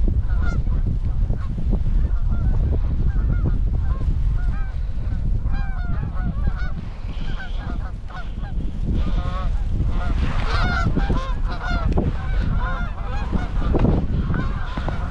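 Many geese honking and clucking in quick, overlapping calls, heavier in the second half, over a heavy low rumble of strong wind buffeting the microphone.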